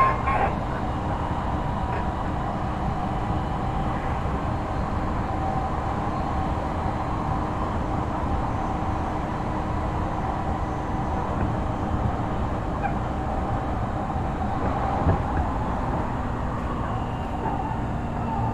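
Odakyu 3000 series electric train running steadily at speed, heard from inside the passenger car: a continuous wheel-on-rail rumble with a faint steady whine from the running gear. There are a couple of brief knocks, one at the start and one about fifteen seconds in.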